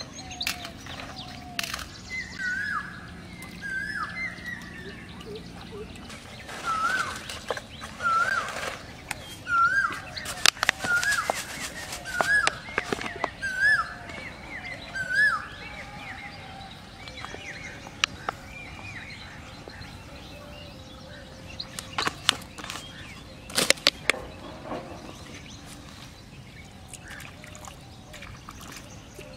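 A bird repeating a short falling-then-rising call about once a second through the first half, over outdoor ambience. Scattered sharp crackles and clicks cut in, loudest around the middle and again about three quarters of the way through.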